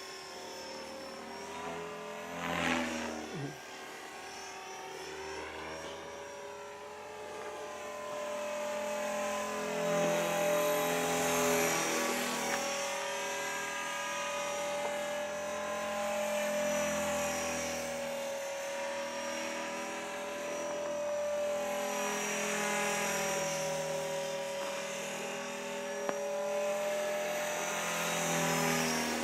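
E-flite Blade 400 electric RC helicopter in flight: a steady motor whine with rotor swish. Its pitch and loudness rise and fall as it passes back and forth.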